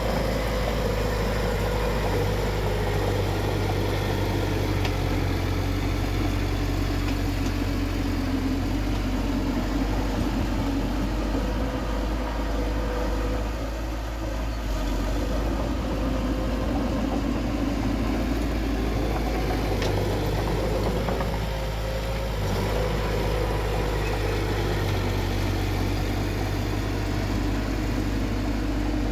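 Bulldozer's diesel engine running steadily at work, its note wavering slightly as the load changes, with brief easings about halfway and again later.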